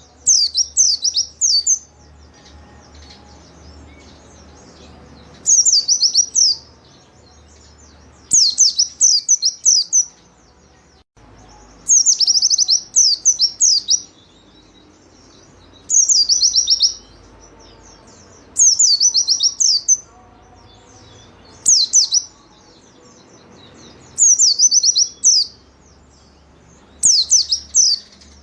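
A white-eye (pleci) singing vigorously in high, rapid twittering phrases of quick sweeping notes. Each phrase lasts about a second and the phrases repeat every two to three seconds.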